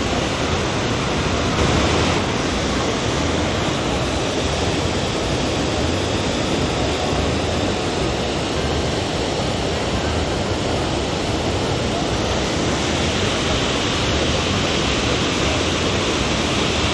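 Steady roar of Niagara Falls: a constant heavy rush of falling water.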